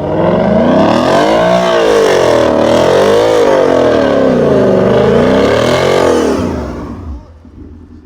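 Car engine revved hard and loud, its pitch climbing and falling in about three long swells, then dropping away near the end.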